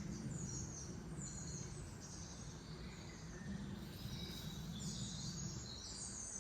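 Outdoor ambience: birds chirping in short, high phrases, several of them stepping downward, over a steady low background rumble.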